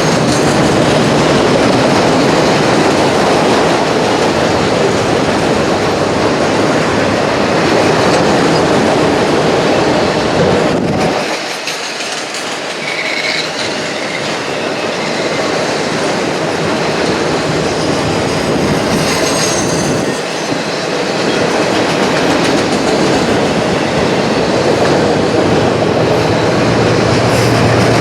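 Autorack freight cars of a CSX train rolling past on jointed track: steady loud wheel rumble with rail clatter. The rumble thins briefly about eleven seconds in, and short faint wheel squeals come a little later.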